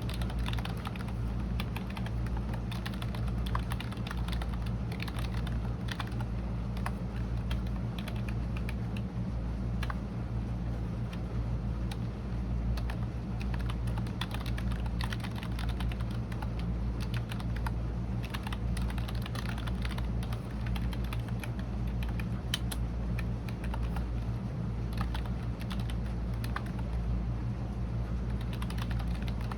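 Continuous typing on a computer keyboard: a dense, irregular run of key clicks without pause, over a steady low hum.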